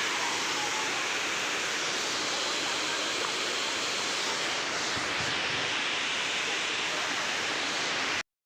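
Waterfall's falling water rushing steadily, an even noise that cuts off abruptly near the end.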